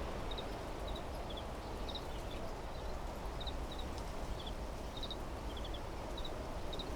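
Wind blowing steadily through trees, with a small bird repeating short, high double chirps about once or twice a second.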